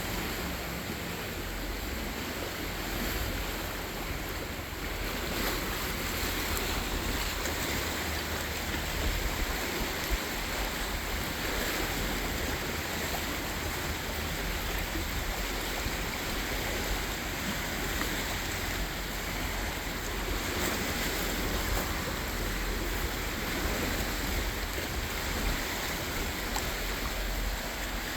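Choppy canal water sloshing with wind, a steady rushing wash of noise with a low rumble underneath.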